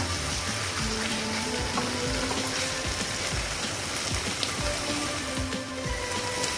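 Chicken pieces frying in oil and masala in a wok, sizzling steadily under background music, with a single sharp knock at the very start.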